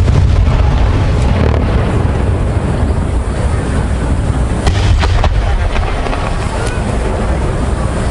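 Fireworks display: a continuous low rumble of bursts, with a few sharp cracks about five seconds in.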